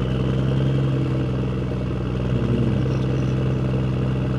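Steady low drone of a vehicle engine running at an even speed, holding one pitch throughout.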